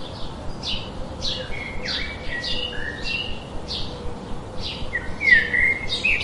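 Small birds chirping: a busy run of short, quick downward chirps, about two a second, with a few lower whistled notes among them.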